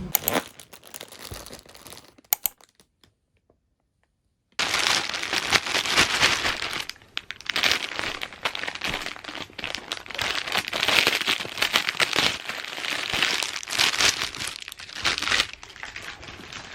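Crinkling and rustling of packaging being handled, with many small clicks. It starts suddenly about four and a half seconds in, after near silence.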